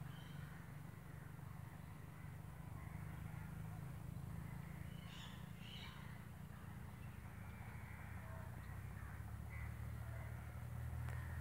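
Outdoor ambience: a steady low rumble that grows near the end, with a few short bird calls, two of them about halfway through.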